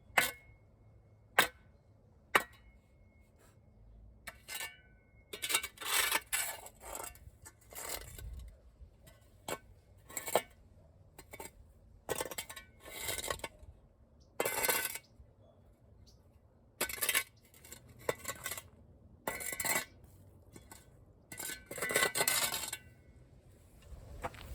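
A few sharp clinks of hard objects, then a string of irregular scraping and rustling bursts.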